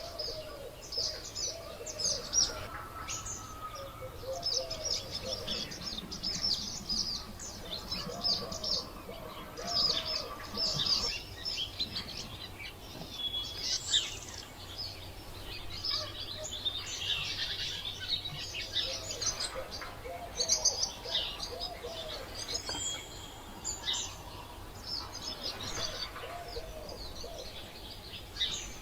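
Birds calling: a dense chorus of short, high chirps, with a lower arched call repeating every second or two underneath.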